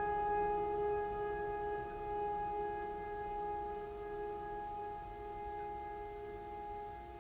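A sustained bell-like ringing tone with several steady overtones, slowly fading over the whole stretch.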